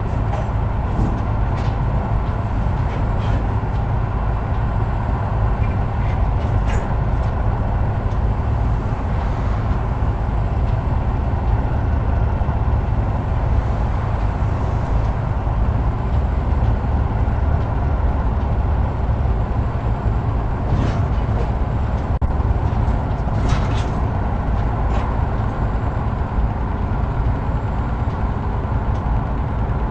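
Heavy truck under way: a steady low engine and road rumble with no change in pace, and a few brief rattles or clicks now and then.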